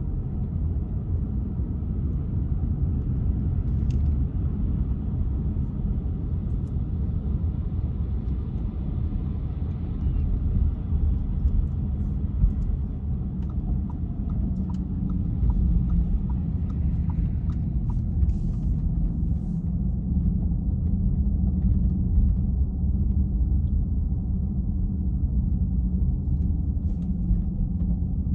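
Steady low rumble of a car driving: engine and tyre road noise.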